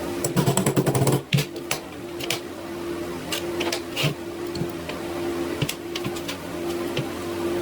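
A rapid rattle of clicks in the first second, then single sharp clicks every so often, over a steady hum that cuts out at regular short intervals.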